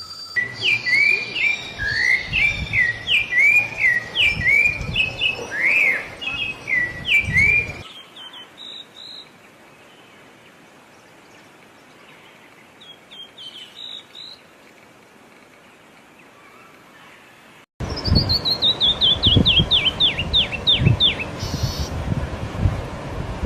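Small songbirds chirping in quick, repeated short notes, then a quieter stretch with only a few faint chirps. After an abrupt cut, a fast run of chirps falls steadily in pitch, over a low rumbling noise.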